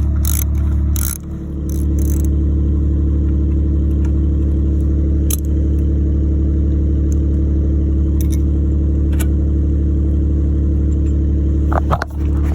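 Steady low drone of an engine or motor running at constant speed, holding one pitch, with a few light clicks over it.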